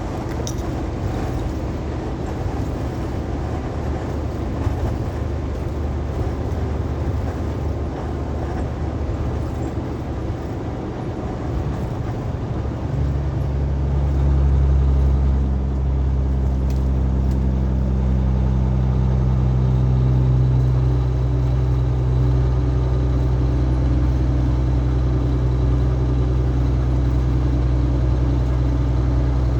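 Semi-truck on the road: a steady low rumble of road and wind noise, joined about halfway through by a louder, steady low engine drone that holds to the end.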